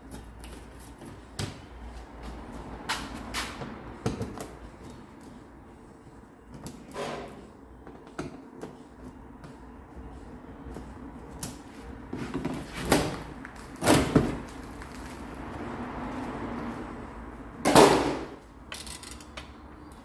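Scattered clicks, clunks and scrapes of hand tools and metal parts being handled on a car during a clutch job. The loudest knocks come about two-thirds of the way through and again near the end.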